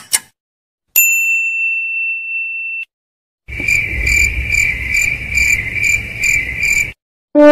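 A single bright ding that holds as a steady tone for about two seconds and cuts off, then the cricket-chirping sound effect: a high chirping that pulses about three times a second for three and a half seconds.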